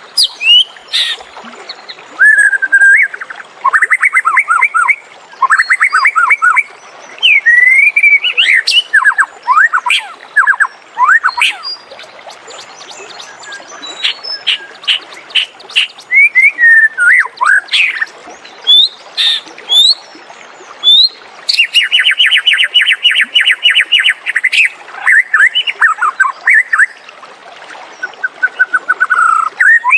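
White-rumped shama singing a varied song of short whistled phrases, sweeps and quick note runs. A little past two-thirds of the way through comes a fast, even trill of many short notes lasting about three seconds.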